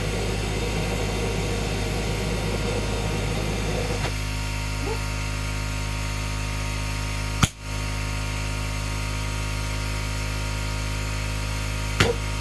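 Steady mechanical hum of the air compressor feeding the propane combustion chamber; a rougher rushing layer over it stops about four seconds in. Two sharp pops, one about halfway through and one near the end.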